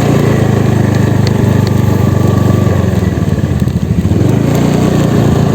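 Motorcycle engine running steadily under way, heard from the rider's seat.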